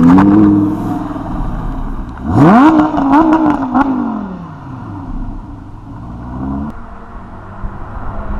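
Lamborghini Huracán's V10 being revved while parked: a rev at the very start falls away, then a sharp rev about two seconds in is held for a moment with a few sharp pops, before the engine drops back to idle.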